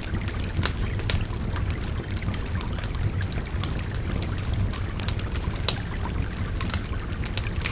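Wood fire crackling with frequent sharp snaps and pops, one louder pop a little past halfway, over the steady rush of a babbling river.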